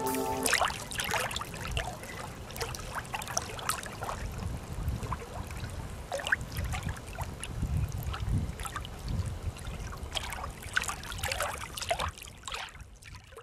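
Water trickling and lapping, with irregular small splashes and clicks over a low rumble. A music cue ends about half a second in.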